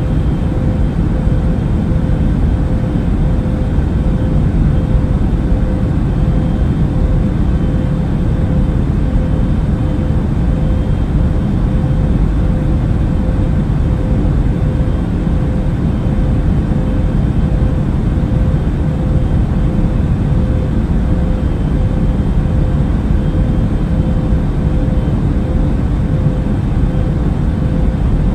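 Passenger airliner in flight heard from inside the cabin: a steady, low-heavy rush of engine and airflow noise with a constant hum tone running through it.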